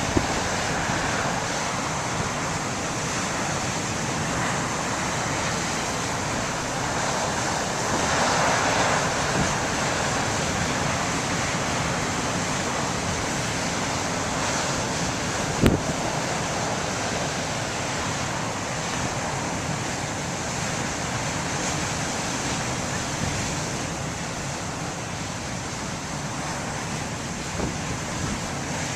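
Wind-driven surf breaking and rushing, mixed with strong gusting wind on the microphone, a steady roar of noise that swells about eight seconds in. A single sharp knock about midway.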